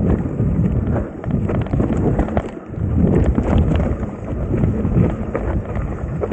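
Wind buffeting the microphone over the rumble and rattle of a mountain bike's tyres and frame on a rough dirt trail descent, with many small clicks and knocks.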